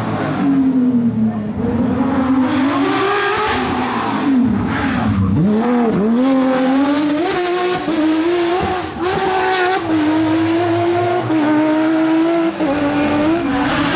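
Porsche 997 GT3's naturally aspirated flat-six engine driven hard on a rally stage, its pitch climbing and dropping with gear changes. About five seconds in come quick sharp dips and rises in revs, like downshift throttle blips, before it holds fairly steady high revs.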